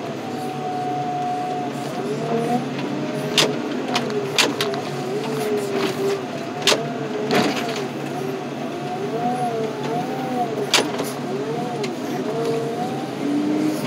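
Heavy diesel equipment working at a car crusher. The engine drones steadily under a whine that keeps rising and falling in pitch as the hydraulics take load, and sharp metal clanks and crunches come every few seconds.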